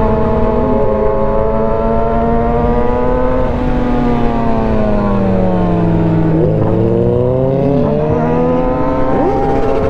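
Yamaha R6's inline-four engine running at steady revs. The revs fall for a few seconds as the bike slows, then climb again from about two-thirds of the way through.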